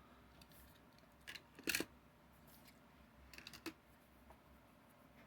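Light plastic clicks and taps from handling die-cast toy trucks in their plastic cases: a pair of sharp clicks about a second and a half in, and a quick run of small clicks a little past halfway.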